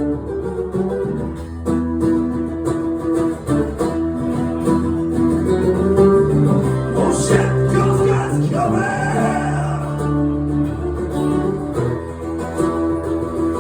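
Live acoustic guitar music: guitars strumming and picking an instrumental passage, with a voice coming in briefly about halfway through.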